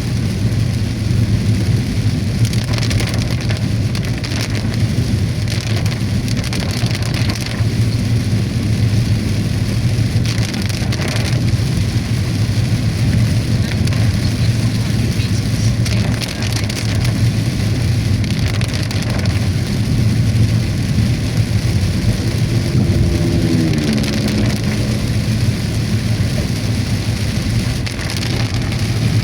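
Heavy rain falling on a car's roof and windscreen, heard from inside the moving car over the steady low hum of engine and tyres. Near the end, a brief whine steps down in pitch.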